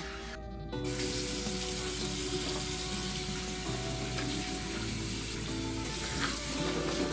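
Water running from a tap into a sink, turned on about a second in, with background music underneath.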